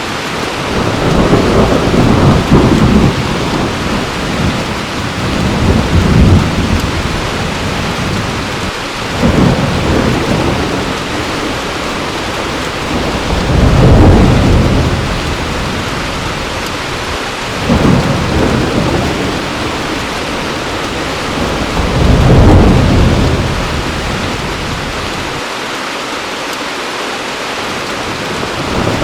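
Heavy rain falling steadily, with six rolls of thunder about four seconds apart, each swelling and fading over a couple of seconds; the thunder pauses near the end while the rain goes on.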